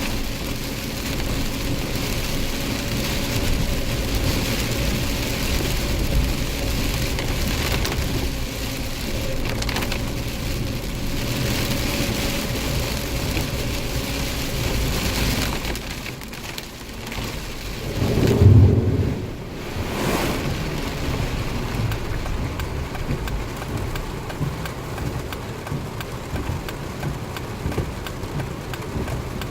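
Heavy rain falling steadily in a thunderstorm, with a loud low rumble of thunder about eighteen seconds in.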